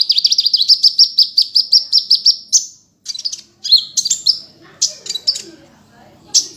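Kolibri ninja sunbird singing: a fast trill of repeated high notes, about eight a second, for the first two and a half seconds, then after a short break a series of brief chirping phrases.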